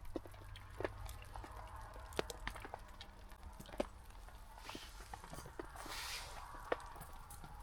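Wood fire crackling: scattered sharp pops and snaps at irregular times, with a brief hiss about five and six seconds in.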